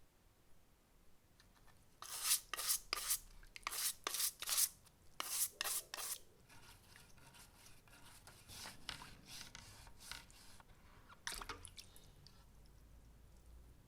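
Hand scraping or rubbing strokes, about ten short harsh strokes in quick succession, then fainter rubbing and one more stroke near the end.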